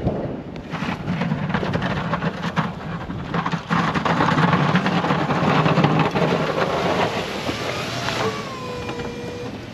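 Plow truck running, with a steady low engine hum under a loud, crackling rumble of the truck working over ice and snow.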